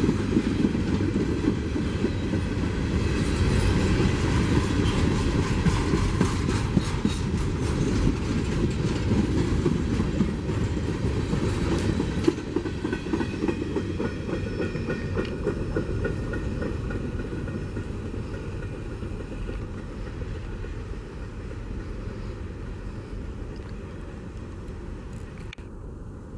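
Freight train cars rolling past, their wheels clacking over the rail joints with a steady rumble. The sound fades away over the second half as the train moves off.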